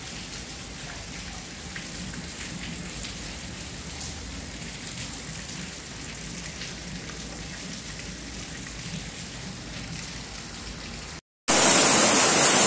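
Steady rain falling on corrugated roofing, an even hiss with a light patter of drops. About eleven seconds in the sound cuts out for a moment, and a much louder, heavier downpour hiss takes over.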